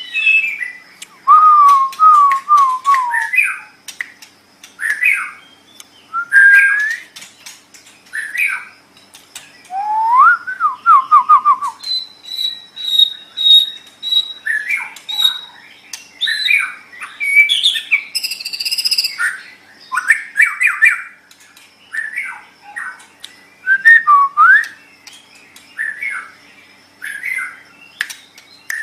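White-rumped shama (murai batu) singing: a continuous run of loud, varied whistled phrases with quick rising and falling glides, some notes rapidly repeated, one long steady high note partway through, and a harsher, buzzier phrase a little later.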